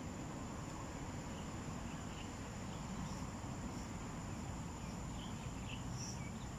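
Insects, crickets or similar, calling in a steady high-pitched drone with faint scattered chirps, over a low continuous rumble of outdoor background noise.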